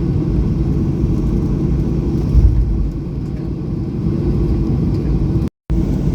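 Boeing 737-800's CFM56-7B engines at taxi power, heard inside the cabin as a steady low rumble, with a brief louder bump about two and a half seconds in. The sound cuts out completely for a moment near the end.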